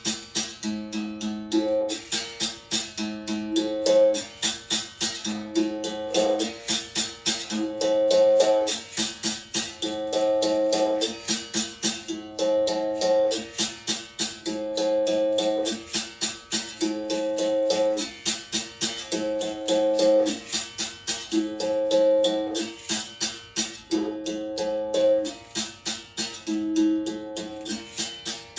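Berimbau played as a drone: its steel wire is struck with a stick in quick, steady strokes. The instrument alternates between a lower and a higher note in a phrase that repeats about every two and a half seconds.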